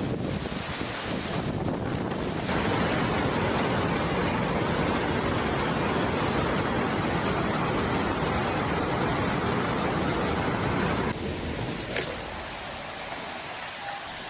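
Rushing floodwater: a loud, dense, steady rush of water noise. It changes abruptly about two seconds in and again near eleven seconds, and is quieter after the second change, with a brief knock about twelve seconds in.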